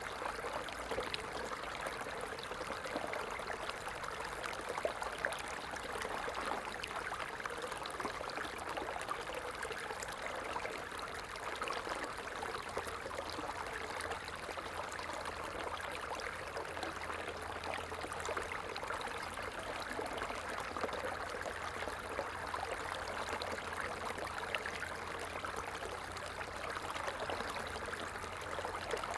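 Small stream of water running and trickling steadily, an even rushing babble with fine splashy crackle.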